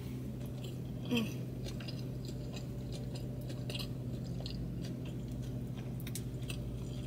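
Close-up chewing of a mouthful of sushi, with soft wet mouth clicks, over a steady low hum.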